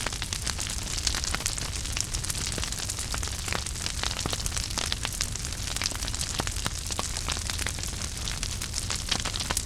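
Wood fire burning in a fireplace: steady hiss and low rumble with frequent irregular crackles and small pops.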